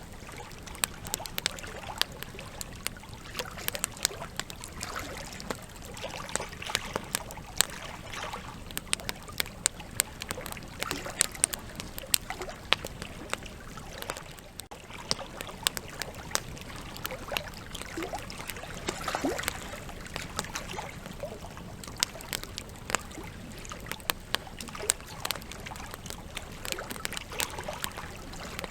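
Wood campfire crackling, with frequent irregular sharp pops and snaps of burning logs over a steady hiss of flame.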